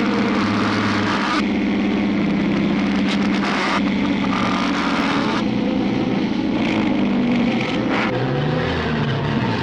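Cartoon soundtrack played backwards: a dense, continuous mix of reversed score and sound effects with a held low pitch, changing in blocks every second or so.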